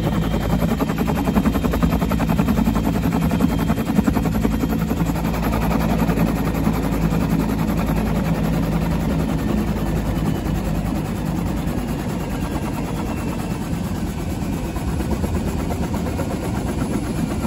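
Bell UH-1 Huey helicopter running, its two-blade main rotor beating rapidly over the turbine engine. The low hum eases slightly about ten seconds in.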